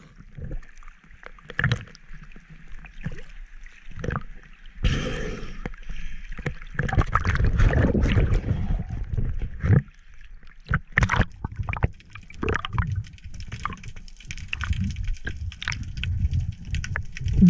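Seawater sloshing and bubbling around a GoPro's waterproof housing as it moves at and just below the surface, in irregular bursts with scattered sharp clicks.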